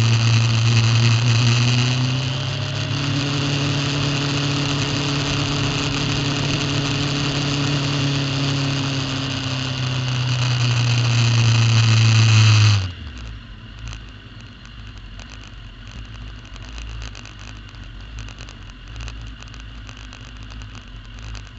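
Superbike engine running at low revs, its pitch dipping and rising slightly, then stopping abruptly about thirteen seconds in, leaving a quieter low rumble.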